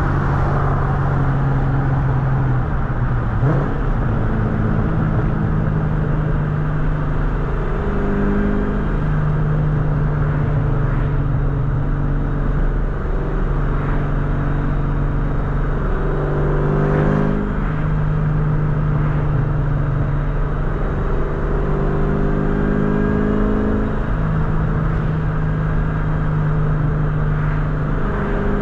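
2003 Mustang SVT Cobra's supercharged 4.6-litre V8 running under way, a steady exhaust drone whose pitch steps down and back up several times, about every five seconds, as the revs change.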